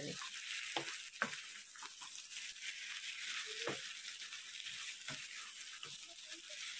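Mutton and masala sizzling steadily in a frying pan while being stirred, with a few sharp knocks of the stirring utensil against the pan. The masala is frying down until its moisture cooks off and it turns dry.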